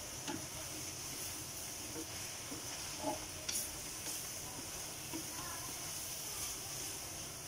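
Cabbage and shrimp sizzling in a wok over a gas flame, stirred and turned with a wooden spatula, with a few light scrapes and knocks of the spatula on the wok.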